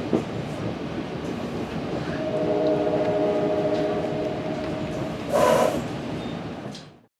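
Inside a moving NJ Transit Multilevel II coach: the steady rumble of the train running, with a horn held for about three seconds in the middle and a short louder blast near the end, before the sound fades out.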